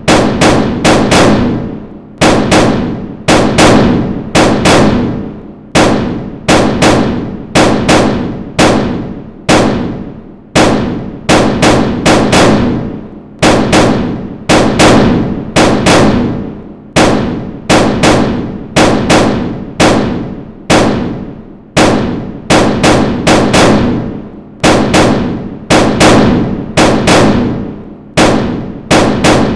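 A long run of loud percussive hits, about two to three a second in uneven groups with short gaps, each hit ringing briefly before the next.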